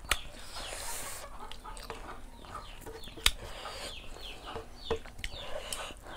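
Birds chirping, short falling calls repeated over and over, with a few sharp clicks and smacks of hands eating from the wooden platter.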